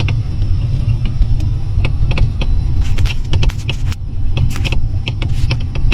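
Mercedes-Benz C-Class driving over uneven road: a steady low road rumble with irregular sharp knocks from the right front shock absorber, heard through a chassis stethoscope's speaker. The knocking comes from a failed shock absorber top mount rubber.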